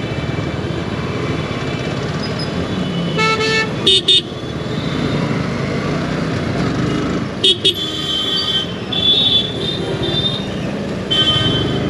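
Vehicle horns honking repeatedly in city traffic: a few longer honks and two quick double beeps, the double beeps the loudest sounds. Underneath is the steady engine and road noise of the Yamaha R15 V4 being ridden through the jam.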